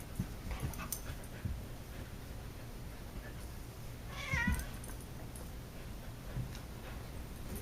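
A cat lets out one short, wavering yowl about four seconds in, amid scattered soft thuds and taps from the cat and husky scuffling.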